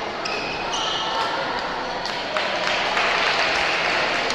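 Shoes squeaking sharply on a court floor during play, then about two seconds in a short round of hand clapping from spectators.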